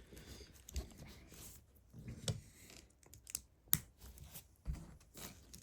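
Small plastic LEGO pieces clicking and tapping as they are handled and pressed together, in a series of irregular sharp clicks.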